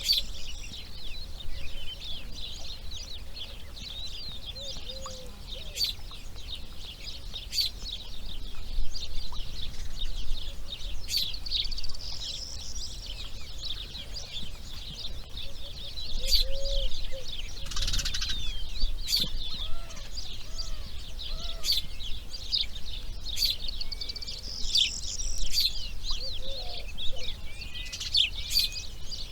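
Dense chorus of small songbirds chirping and trilling without pause, with short low cooing calls from a dove or pigeon now and then. A brief rustling burst about 18 seconds in.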